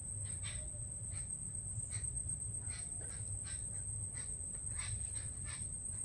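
Birds in a forest giving short calls, about two a second and irregularly spaced, over a steady high-pitched whine and a low rumble.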